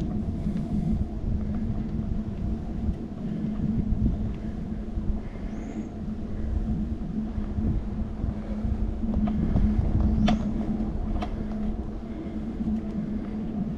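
Steady low rumble of a bicycle being ridden on a road, picked up by a handlebar-mounted camera, with a few sharp clicks near the end.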